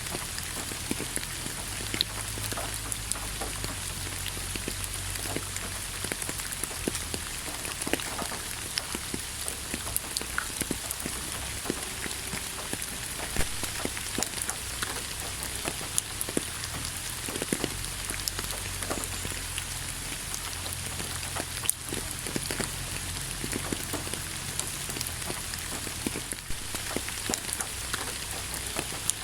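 Steady rain with many individual drops tapping sharply on a surface.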